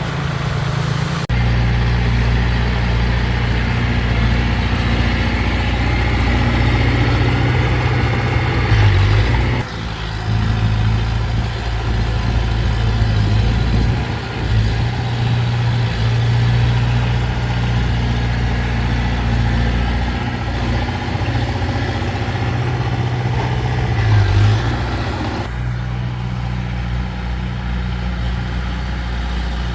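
Heavy diesel engine of earthmoving machinery running steadily with a deep drone. Its sound changes abruptly three times, at about one, ten and twenty-five seconds in.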